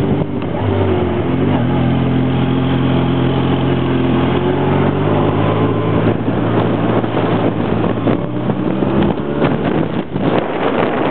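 Ramzey 250 cc chopper motorcycle engine running at a steady pitch. About eight or nine seconds in, the even engine note gives way to a rougher, noisier sound with wind buffeting the microphone.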